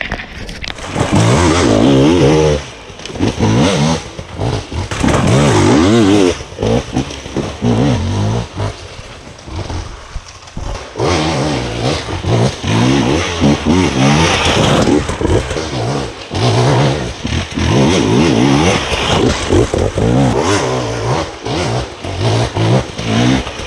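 KTM 250 EXC single-cylinder two-stroke dirt bike engine revving up and down with the throttle while riding, its pitch rising and falling every second or two and easing off briefly about ten seconds in.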